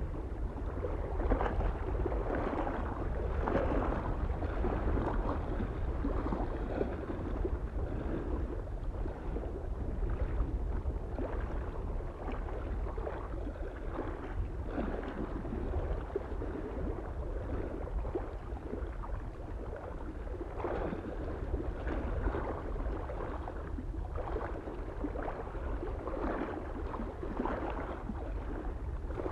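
Small waves lapping and splashing irregularly against a lake shore, over a steady low wind rumble.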